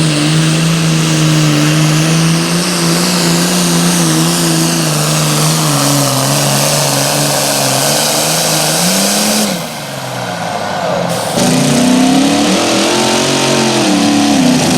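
Engine of a competition pulling tractor or truck running loud and hard at high rpm under load, with a hiss above it. Its pitch sags slightly, climbs briefly and then breaks off about nine and a half seconds in. After a short quieter stretch the engine sound returns, its pitch rising and then falling.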